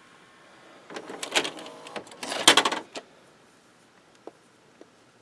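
A small motorised mechanism whirring and clattering for about two seconds, then two faint clicks.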